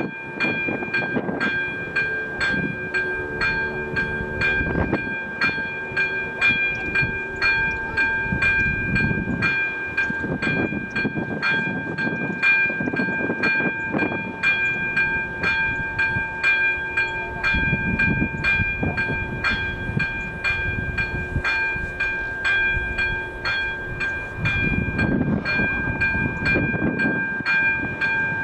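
Level-crossing warning bell, an AŽD ZV02 electronic bell, ringing steadily at about two strikes a second with a sustained ringing tone: the crossing is activated for an approaching train.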